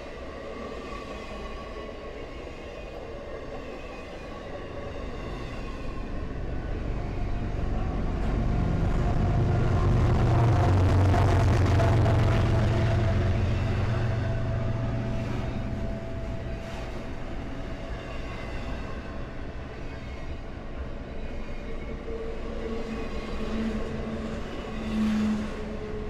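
Freight train rolling past: a steady rumble of railcars on the track that swells to a loud low rumble about ten seconds in, then slowly fades. A short rise comes near the end.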